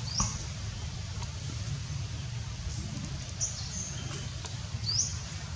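Birds chirping: a few short, high rising chirps, the loudest at the very start and near the end, over a steady low rumble.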